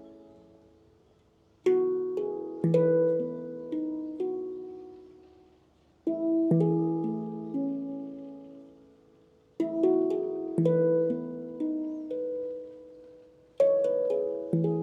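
Handpan played by hand in unhurried phrases: four short runs of a few struck notes each, every three to four seconds, every note ringing on and fading slowly before the next run.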